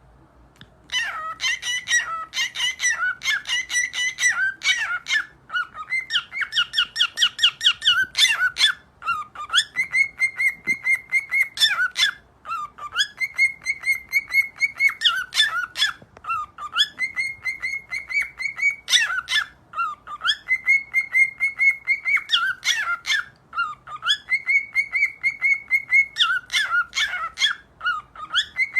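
Cockatiel singing a whistled song, starting about a second in: a phrase of quick chirps, a held whistle note and a dipping glide, repeated over and over.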